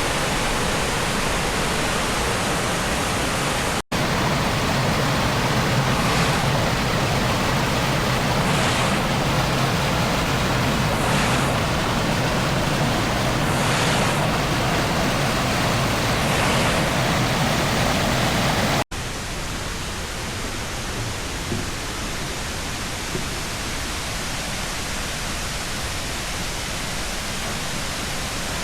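Steady rush of water pouring down a waterfall's limestone tiers. It breaks off abruptly twice, and after the second break it is slightly quieter.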